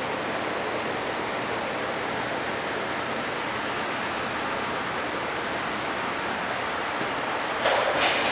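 Steady rushing noise of a city street in a snowstorm, with a short, sharp hiss lasting about half a second near the end.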